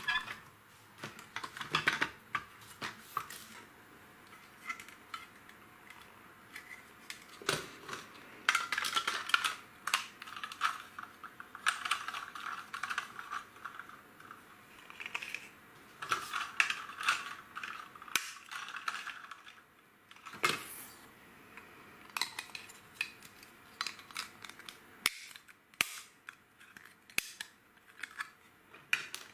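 Plastic LEGO pieces handled by hand: scattered sharp clicks with stretches of denser rattling and clattering, as bricks are picked through and pressed together.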